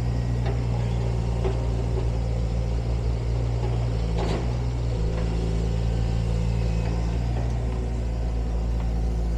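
Demolition excavator's diesel engine running steadily, its low hum dropping and then picking up again about four to five seconds in, with a few faint knocks.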